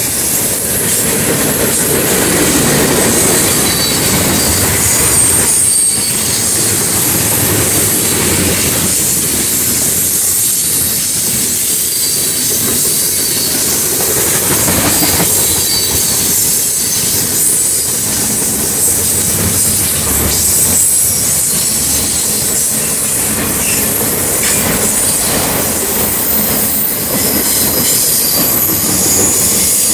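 Freight train cars (tank cars, boxcars and autoracks) rolling past: a steady, loud rumble and clatter of steel wheels on the rails, with thin, high-pitched wheel squeals wavering above it.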